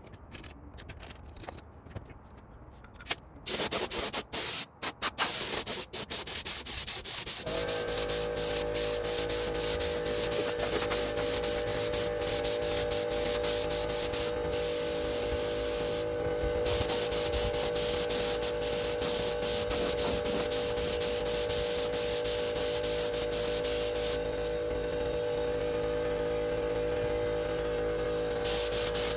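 A power tool sanding or grinding, the sound chopped by time-lapse jump cuts. It starts loud about three and a half seconds in, and a steady motor whine joins it a few seconds later.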